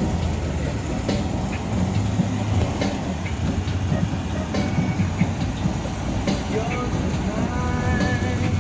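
Van driving, heard from inside the cabin: a steady low rumble of road and engine noise with scattered rattles and clicks.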